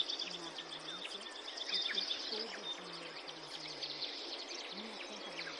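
Steady rain ambience with birds chirping, short rising and falling calls scattered throughout. Underneath, a faint muffled low voice murmurs in short syllable-like pieces: the hidden subliminal affirmation layer.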